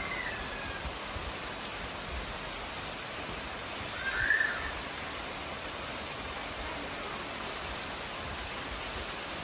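Steady hiss of falling rain. A crow caws once, about four seconds in.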